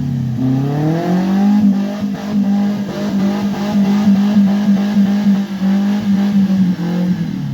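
Off-road 4x4's engine revving up about a second in and held at steady high revs under load, its pitch dropping off near the end.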